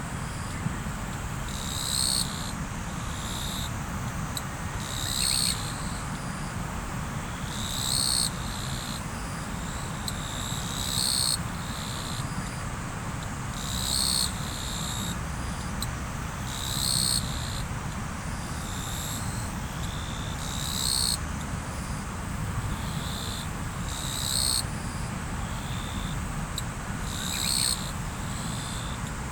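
River water flowing steadily, with a short high-pitched call, from an animal or insect, repeating about every three seconds.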